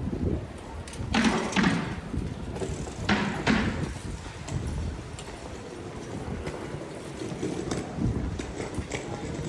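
Outdoor pedestrian street ambience with a steady background murmur and light scattered knocks, and two louder short bursts about a second and about three seconds in.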